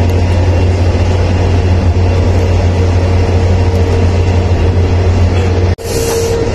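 Passenger train running at speed, heard from inside the carriage: a loud, steady rumble with a strong low drone and a faint steady hum over it. The sound drops out for an instant near the end, then the same running noise carries on.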